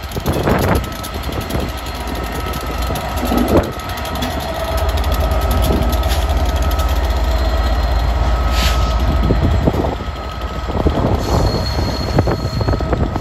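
Freight train passing on the line: a continuous deep rumble with steady whining tones above it. The rumble is heaviest from about four seconds in to ten seconds in, with a few short clanks along the way.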